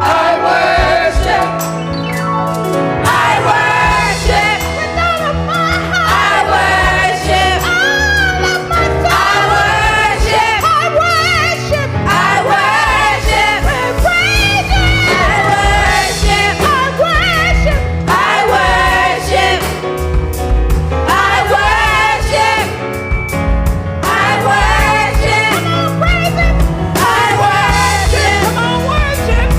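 Live gospel worship music: a group of singers with a band, bass and keyboard, voices gliding and riffing over a steady groove.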